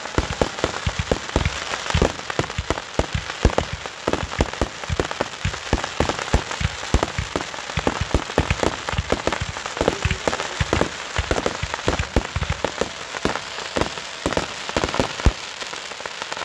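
Aerial fireworks crackling overhead: a dense, irregular stream of rapid snaps and pops, with now and then a louder bang among them.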